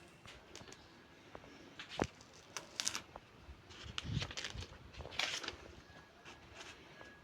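Handling noises: scattered clicks, taps and short rustles or scrapes, with a sharp knock about two seconds in and a dull thump around four seconds.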